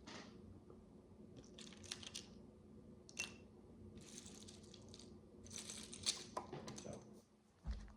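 Tiny plastic micro bricks being handled and pressed together: scattered light clicks and rustling, with a sharper click about six seconds in and a soft low thump near the end.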